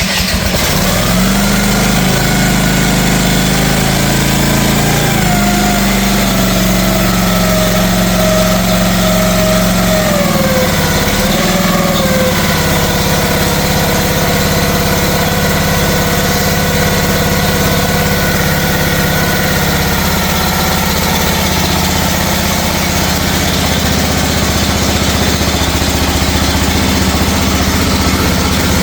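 Small mini excavator engine running just after a cold start with the choke on, having sat for a week in freezing weather. Its speed shifts up and down a couple of times in the first dozen seconds, then settles into a steady idle.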